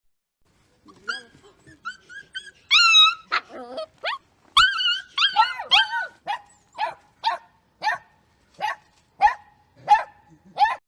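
A dog whining and yelping in high, wavering calls, then giving a steady run of short, high-pitched yips, one or two a second.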